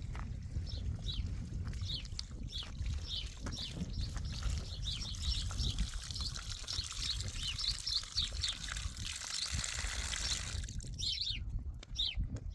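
Small birds chirping, many short, quick calls repeated over and over and thickest in the middle, with a high hiss behind them that cuts off abruptly near the end. A low rumble of wind on the microphone runs underneath.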